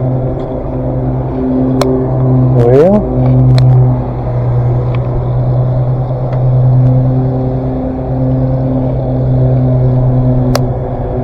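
An engine running steadily, with a quick rise in pitch about three seconds in and a few sharp clicks over it.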